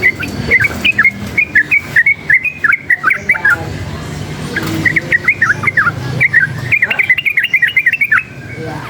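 Yellow-vented bulbul (trucukan) singing rapid runs of short, chirping notes. One run stops about three and a half seconds in, and a second run starts again a second later, over a low background rumble.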